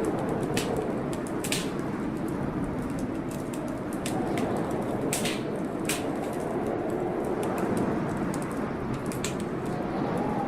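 Wood fire crackling in a fireplace, with sharp pops scattered irregularly, over a steady storm rumble of wind and rain.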